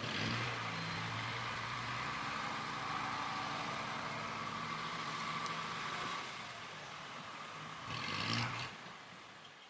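Heavy construction machinery's diesel engine running steadily, with a brief louder swell near the end before the sound fades out.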